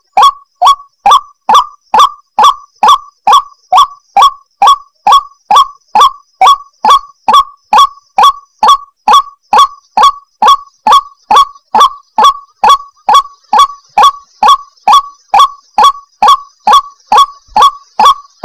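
White-breasted waterhen (ruak-ruak) calling: an unbroken, even run of short notes, about three a second, each dipping slightly in pitch.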